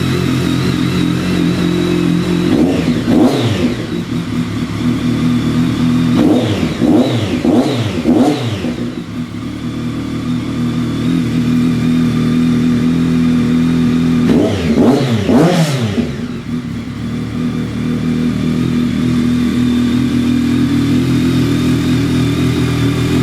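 BMW K1200S inline-four engine idling through a Two Brothers aftermarket exhaust, with the throttle blipped in three spells: once a few seconds in, several quick revs around eight seconds, and again around fifteen seconds in.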